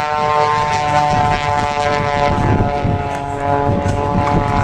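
Propeller engine of a low-flying aerobatic airplane droning steadily, its pitch sliding slowly lower.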